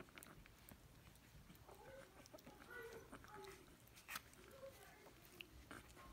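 Faint, short animal calls scattered through, with a few light clicks.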